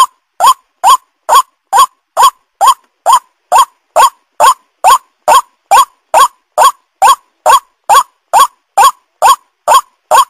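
White-breasted waterhen (ruak-ruak) lure call: a short note, rising quickly in pitch, repeated evenly a little over twice a second.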